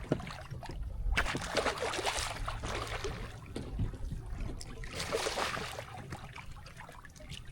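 Water splashing and trickling around a kayak, in uneven bursts, louder about a second in and again about five seconds in.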